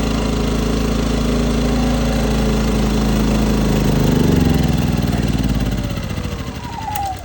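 Westinghouse 2500 inverter generator's engine running steadily, then slowing with a falling pitch from about four seconds in and dying out near the end. It keeps running only on a squirt of starter fluid, which the owner takes as the sign of a bad carburetor.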